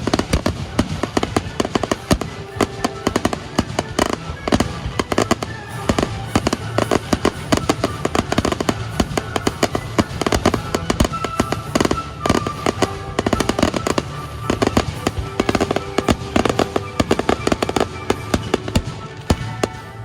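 Aerial fireworks going off in a fast barrage of bangs and crackles, several bursts a second, with music playing underneath. The bursts stop suddenly at the end, leaving the music.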